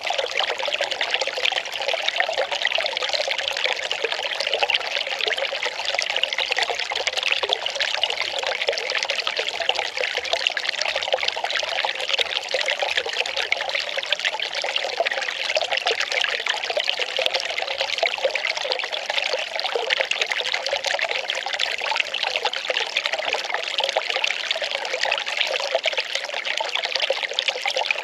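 Well water pouring in a steady, unbroken trickling stream.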